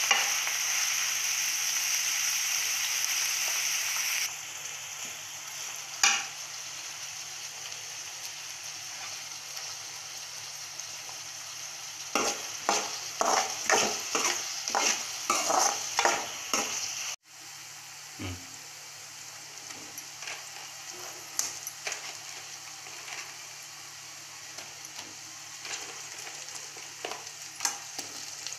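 Chopped onions and green chillies sizzling in hot oil in a metal pan, stirred with a spatula that scrapes the pan. The sizzle is loud at first and drops about four seconds in. A run of quick scraping strokes comes about halfway through, then a quieter sizzle with a few light knocks.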